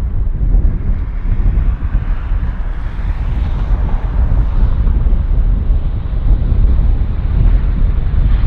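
Jet airliner engines running loud as the aircraft passes close, heavily buffeted by wind on the microphone; the engine sound brightens briefly about three seconds in.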